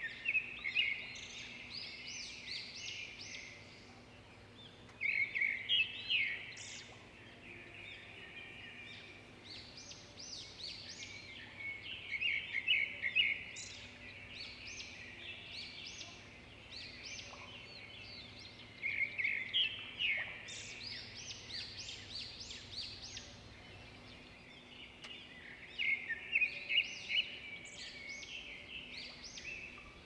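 Small birds chirping and trilling, with overlapping bursts of quick high notes every few seconds.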